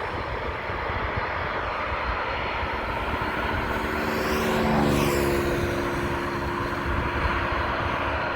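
Airbus A320 jet engines at takeoff power as the airliner departs, loudest about five seconds in as it passes, with the engine tones dropping in pitch after it goes by.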